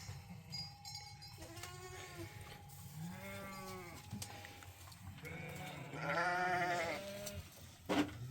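A flock of sheep or goats bleating: several separate calls overlap, the loudest a long quavering bleat about six seconds in. A short sharp knock comes near the end.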